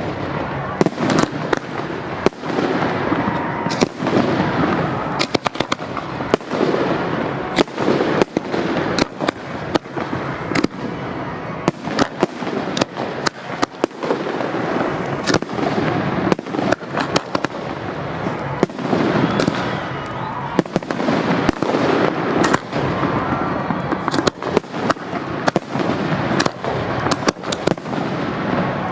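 Fireworks display at full pace: a dense, continuous barrage of shell bursts, with dozens of sharp bangs and crackling reports over a steady rumble.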